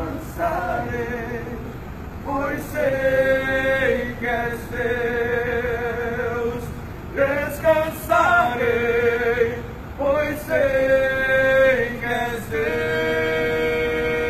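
Male voices singing a worship song together, holding long notes with vibrato and pausing briefly between phrases.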